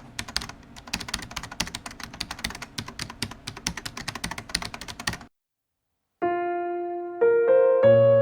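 Rapid clatter of keystrokes, as of typing on a keyboard, for about five seconds. After a short gap, sustained piano notes begin near the end.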